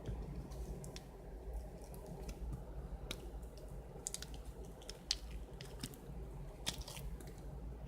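Foam ball slime being squished and pressed by hand, giving scattered small crackling pops as the foam beads burst and the slime squelches, busier in the second half.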